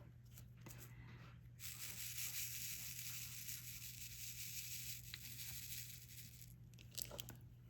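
Plastic crackling as it is peeled or torn while diamond painting: a steady, hissing tearing sound lasting about five seconds, starting a little over a second in, with a few light clicks around it.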